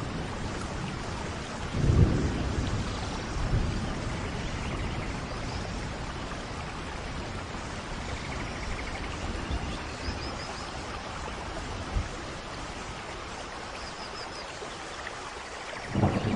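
Steady tropical rain, with low rumbles about two seconds in and again near the end, and a few faint, high bird chirps in between.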